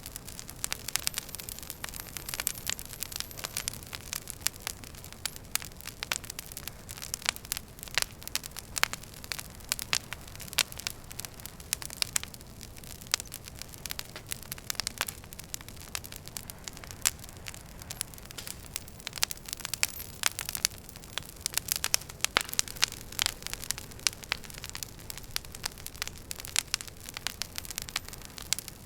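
Wood fire burning in a fireplace, crackling steadily: frequent sharp pops and snaps, several a second, over a soft low hiss of the flames.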